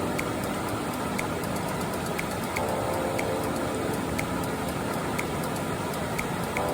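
Mountain stream water rushing steadily, with a faint tick about once a second.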